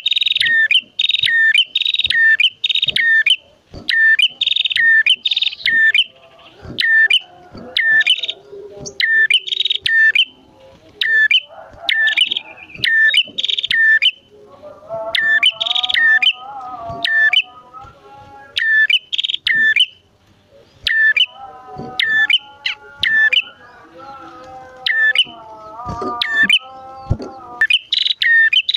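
Prenjak (prinia) songbirds calling: a loud, fast series of sharp repeated chirps, with a lower warbling call from a second bird joining in twice, near the middle and again later.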